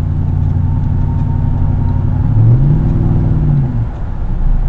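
2008 Nissan Titan's 5.6-litre V8 running through a Magnaflow true dual straight-pipe exhaust with a steady drone. About two and a half seconds in, the pitch rises as the engine picks up revs, holds for about a second, then drops back.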